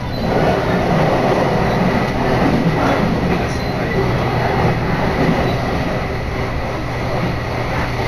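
Electric commuter train running, heard from inside the carriage: a steady rumble of wheels on rail with a constant low hum.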